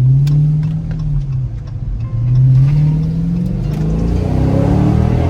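2023 Dodge Scat Pack Widebody's 6.4-litre HEMI V8 on its stock exhaust, accelerating while driving. The engine note rises briefly, dips about a second and a half in, then climbs steadily again.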